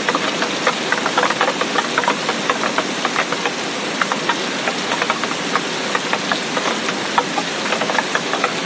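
Heavy rain falling steadily, with a dense, fast patter of individual drops striking close by.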